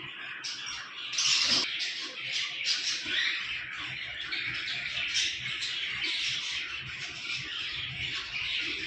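A dense chorus of many caged birds calling at once, overlapping without pause, with a louder burst of calls about a second in.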